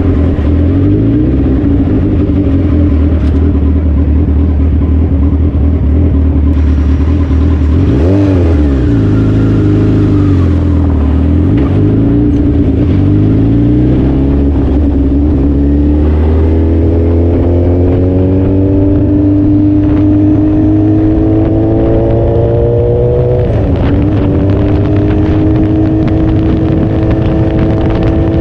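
Suzuki Hayabusa's inline-four engine running under way, with the revs dipping and picking up again about eight seconds in. From about halfway the revs climb steadily, drop sharply at a gear change near the end, then climb again.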